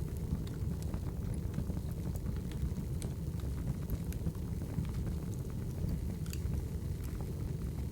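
Crackling wood fire ambience: a steady low rush of burning logs with sparse, irregular sharp pops and crackles.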